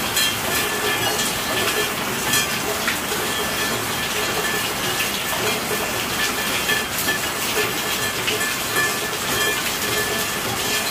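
Steady rainfall, a constant hiss scattered with sharp ticks of individual drops striking.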